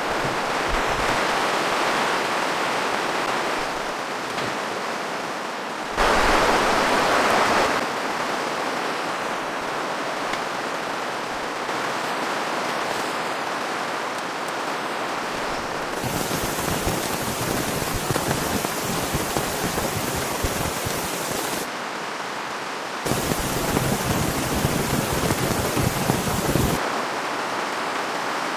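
Steady rain, an even hiss that changes abruptly in loudness and texture several times. In a couple of stretches it turns into a denser, louder patter.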